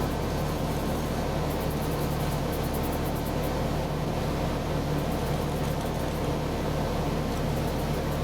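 A machine running steadily: a constant low hum with a rush of noise over it, unchanging throughout.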